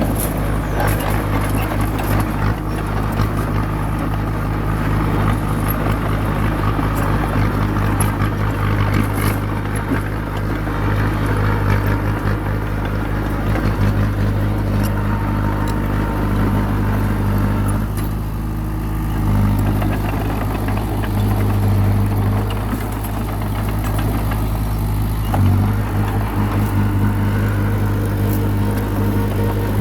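Komatsu crawler bulldozer's diesel engine running steadily while working, with its engine note shifting briefly about two-thirds of the way through and again near the end.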